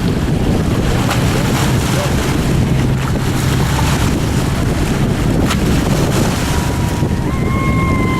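Racing lobster boats running at speed, their engines a steady low rumble under heavy wind noise on the microphone. A steady high tone joins in near the end.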